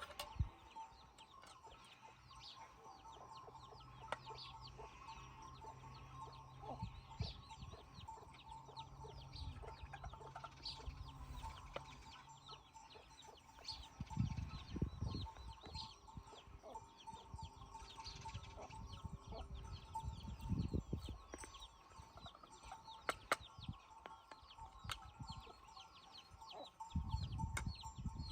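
Birds calling outdoors, many short high chirps scattered throughout, with a faint low rumble a few times.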